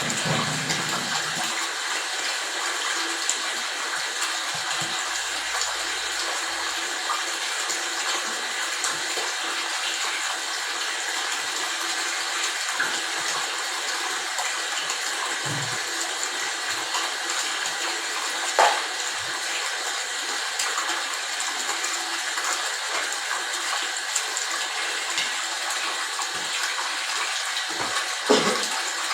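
Steady rushing of flowing water, with a couple of short knocks partway through and near the end.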